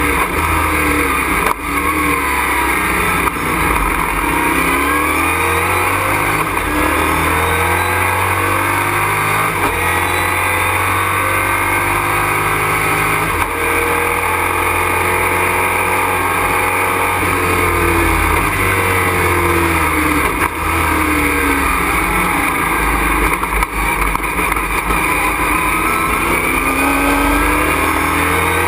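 Race truck engine heard from inside the cockpit under hard running on track. Its pitch rises and falls repeatedly as the truck accelerates and slows through corners, with a few brief drops in level.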